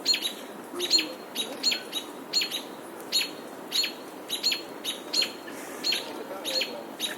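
Small songbirds chirping rapidly and persistently, a run of sharp, high chirps that each sweep downward, about three a second.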